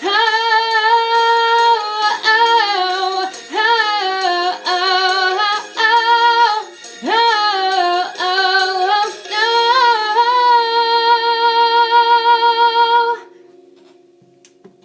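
A woman singing a wordless run of notes with vibrato, ending on a long held note that stops about thirteen seconds in; a faint click near the end.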